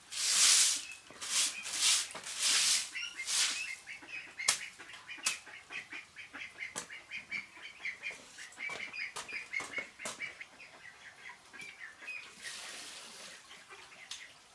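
Birds calling in a rapid run of short, high calls, after several loud bursts of rustling noise at the start.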